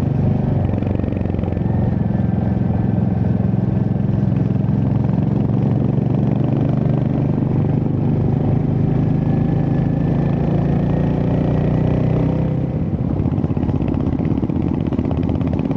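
Royal Enfield Hunter 350's single-cylinder engine running steadily while riding, with road and wind noise; near the end the engine note drops away as the throttle eases.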